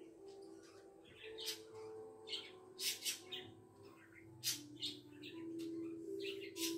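Small birds chirping in short, high, sharp calls, repeating every second or so, with a faint low steady hum underneath.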